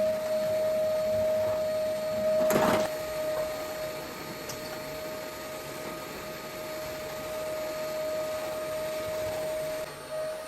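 An electric motor running with a steady hum, with a brief clatter about two and a half seconds in.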